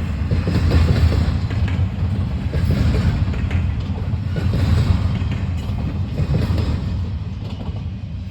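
Freight train rolling past: a steady low rumble with a dense clatter of wheels on rail, fading toward the end.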